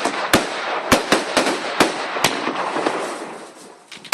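Fireworks going off: a quick irregular run of sharp bangs over crackling that dies away about three seconds in, then one loud bang right at the end.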